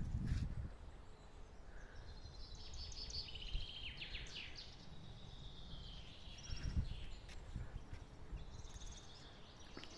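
Small songbirds singing in the open: repeated chirps and short buzzy trills, high-pitched, over faint low background noise. A low rumble fades out in the first second.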